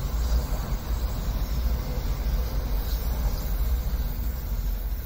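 A Shinkansen running past on a nearby viaduct: a steady rushing noise with a deep low rumble.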